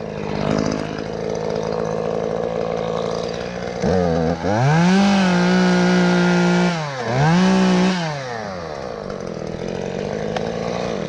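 Two-stroke chainsaw running at a low, steady speed, revved up hard twice, first for about three seconds and then briefly again, before settling back to idle.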